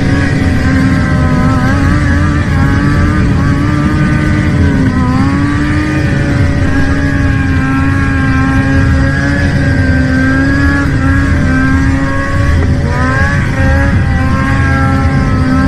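An engine running at high, steady revs, holding one pitch, with brief dips in pitch about five seconds in and again around thirteen seconds.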